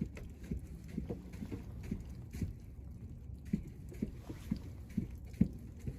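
A run of soft, low knocks and taps, irregular at roughly two a second, growing a little louder toward the end.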